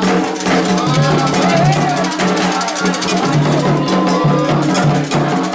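Music of an Afro-Brazilian religious ceremony: steady rhythmic drumming with voices singing a chant over it.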